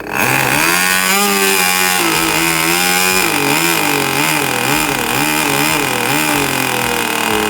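Magnum GP 15 (2.49 cc) two-stroke nitro glow engine of a model airplane, just caught on a cold start and running loud. Its pitch wavers up and down unevenly, as a freshly started glow engine that is not yet settled does.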